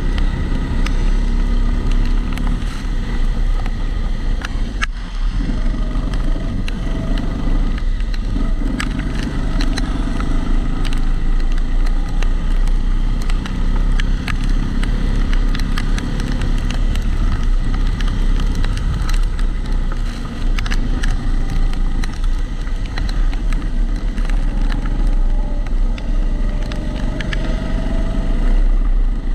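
Onboard sound of a Kombikart Eco rental kart's engine running steadily through a lap, with a brief dip in its note about five seconds in. Many small clicks run through it, a regular rattle that comes from the GoPro's protective housing.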